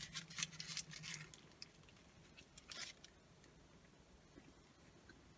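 Faint eating sounds: a bite into a burger and wet chewing with soft mouth clicks, most of them in the first second or so, then only a few scattered clicks.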